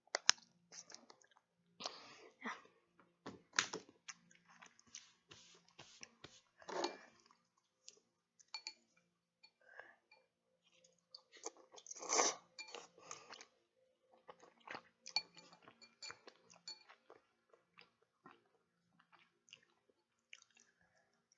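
A person chewing food close to the microphone: irregular wet clicks and smacks of mouth and teeth, with one longer, louder noisy sound about halfway through.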